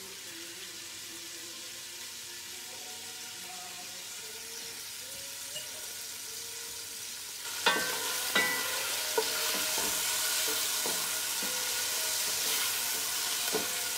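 Crumbled Italian sausage sautéing in a pan: a steady sizzle that gets louder a little past halfway as the pieces are stirred, with a few clicks of the spoon against the pan.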